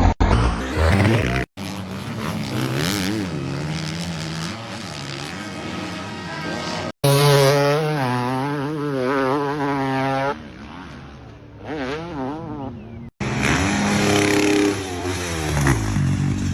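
Motocross bike engines revving up and down, heard in a run of short clips that each break off abruptly.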